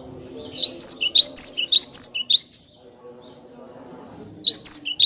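Glatik batu (cinereous tit) singing: rapid runs of sharp, high, downslurred chirps, about four a second. The first run starts about half a second in and lasts a couple of seconds; a second run starts near the end.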